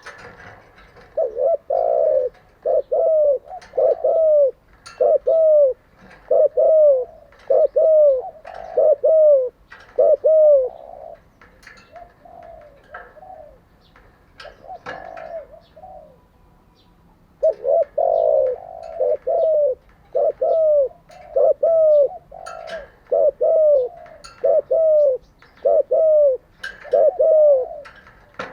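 Spotted dove cooing in runs of short, even coos, about two a second, with a pause of several seconds in the middle before a second run. Sharp short clicks or chirps are scattered through.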